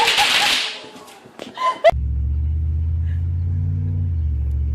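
A loud hiss fades out, a few sharp clicks and a quick swish follow, then a motor vehicle's engine runs steadily from about two seconds in, its pitch dropping a little about four seconds in.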